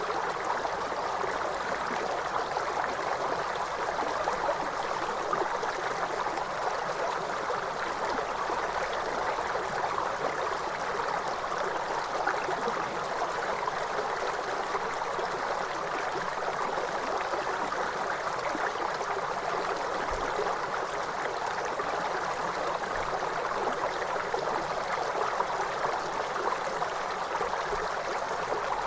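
Steady rush of falling water from a waterfall, an even unbroken sound centred in the middle range.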